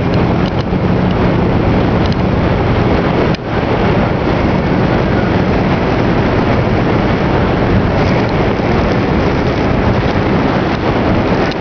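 Motorboat engine running steadily under way, a constant low hum under heavy wind buffeting the microphone and rushing water.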